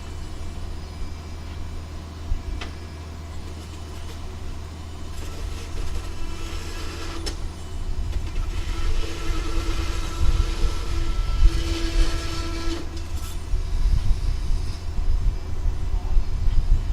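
A motor or engine running steadily with a low hum. About five seconds in it grows louder, with a steady whine, and it eases back near the end.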